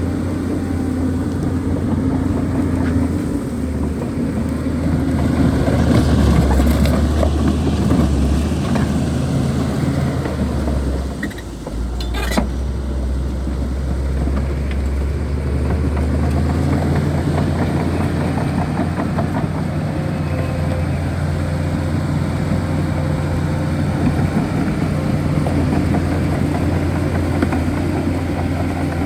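Shantui DH17C2 bulldozer's diesel engine running steadily, with a brief dip about eleven seconds in and a single sharp crack just after.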